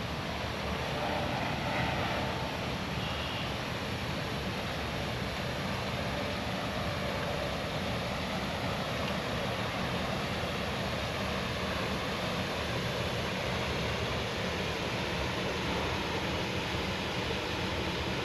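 Water rushing over a small dam: a steady, unbroken noise with a heavy low rumble.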